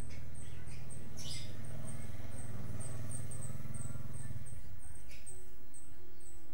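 Prinia (prenjak) calling: a fast, even series of short, very high chirps, about three a second, with a low hum underneath that fades out about two-thirds of the way through.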